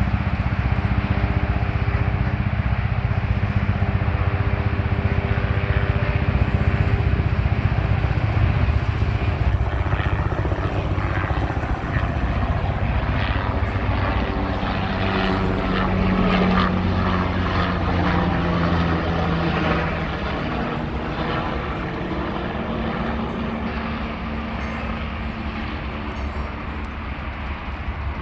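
Air ambulance helicopter flying overhead: steady rotor chop and engine drone, its tone shifting in pitch around the middle as it passes and growing fainter over the last several seconds.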